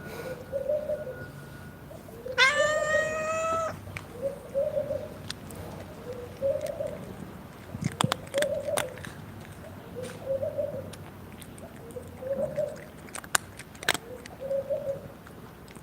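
A dove cooing over and over, one low phrase about every two seconds. About two seconds in, a cat gives one long meow, and a few sharp clicks or taps come later.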